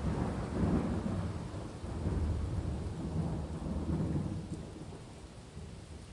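Thunder rumbling over steady rain, swelling again about a second in and around two and four seconds, then dying away toward the end.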